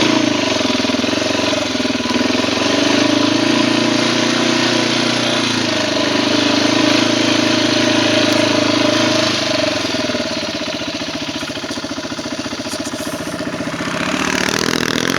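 Quad (ATV) engine running close by, steady for about ten seconds, then easing off to a lower, quieter run.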